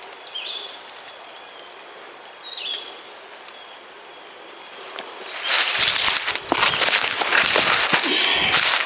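A few short songbird chirps over quiet woods, then about five and a half seconds in, loud irregular crunching and rustling of dry leaves on the forest floor begins.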